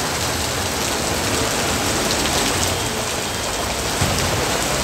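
Heavy rain pouring steadily onto a paved street and parked vehicles, a dense even hiss.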